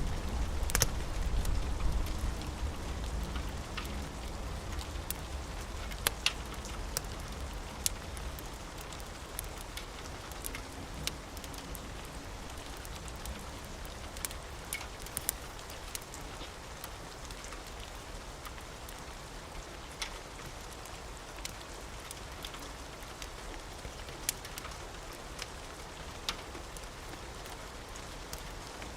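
Steady rain pattering on a roof, with scattered sharp crackles and pops from a wood fire. A low rumble of thunder dies away over the first few seconds.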